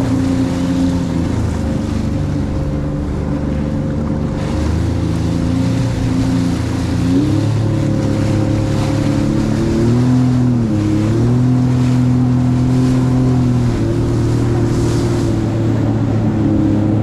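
Jet ski engine running at speed, its pitch shifting up and down a few times as the throttle is eased and opened, over a steady rush of wind and water.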